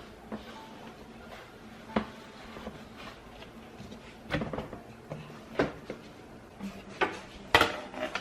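Household clatter from cleaning: a string of separate knocks and bumps of objects or cupboard doors being handled, about six of them, the loudest near the end.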